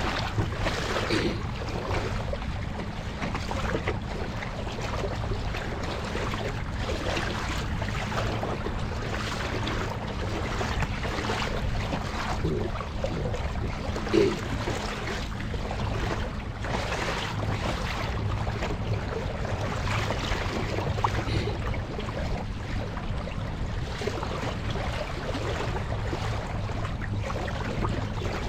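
Kayak under way on open water: splashing and wash against the hull with wind on the microphone, over a steady low hum from the kayak's motor as it tows a swamped kayak against the current.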